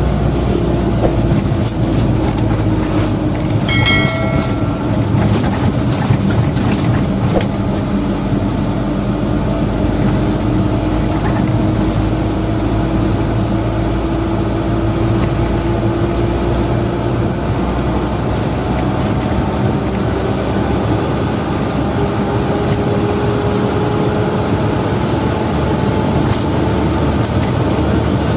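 Dump truck driving, with steady engine and road noise and an engine tone that slowly sinks and rises again as speed changes. A short pitched tone sounds about four seconds in.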